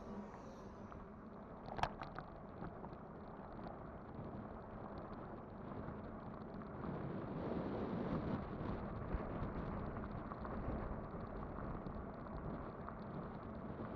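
Riding noise of a Kugoo Kirin V5 electric bike: tyres rolling and wind on the microphone, with a faint steady hum. A single sharp knock comes about two seconds in, and the noise grows louder about halfway through.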